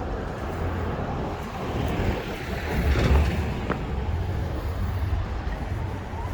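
A car passing by on the street, loudest about three seconds in, over a steady low rumble of traffic.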